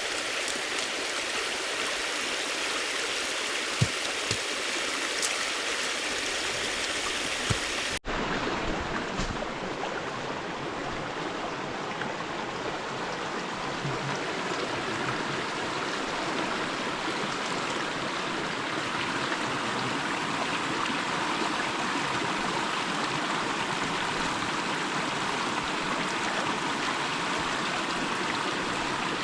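River water rushing steadily, with a few sharp knocks in the first eight seconds. About eight seconds in there is an abrupt cut, after which the rushing sounds slightly duller.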